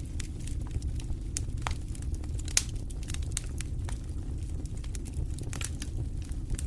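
Wood fire burning in a fireplace: a steady low rumble of the flames with scattered sharp crackles and pops, the loudest about two and a half seconds in.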